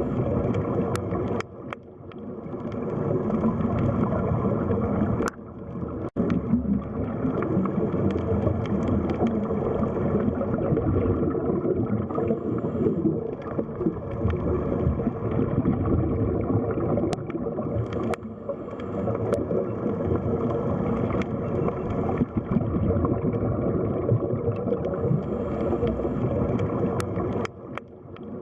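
Underwater sea ambience: a dense, muffled wash of water noise, mostly low and mid pitched, with brief drops in level about two seconds in, around six seconds and near the end, and a few faint clicks.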